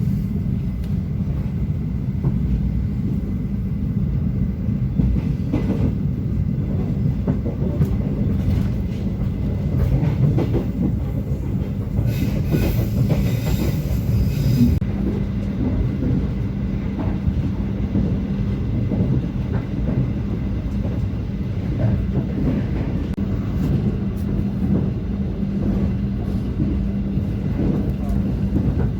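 Turangga passenger train running along the track: a steady low rumble with a hum and scattered wheel clicks over the rails. A brief rush of hiss comes in about twelve seconds in and stops about three seconds later.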